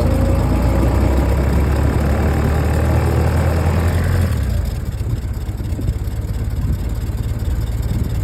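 Ford Model T truck's four-cylinder engine running. About four seconds in, the steady low hum gives way to a rapid fluttering putter, a little quieter.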